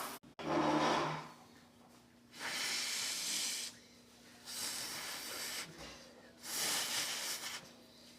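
Repeated bursts of hissing noise, each about a second or two long, coming every couple of seconds with quieter gaps between them.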